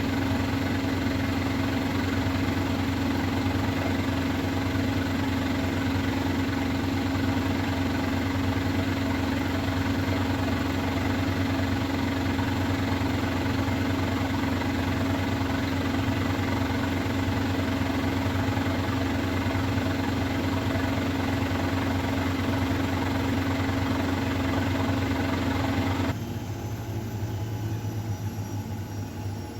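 Miele Novotronic W912 washing machine spinning at a steady high speed with a steady hum. About 26 seconds in the drive cuts out and the drum coasts down, leaving a fainter sound with a falling whine.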